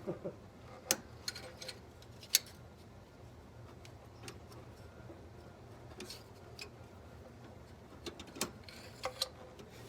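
A few scattered light clicks and taps from hand work on parts, a couple in the first few seconds and a few more near the end, over a faint steady low hum.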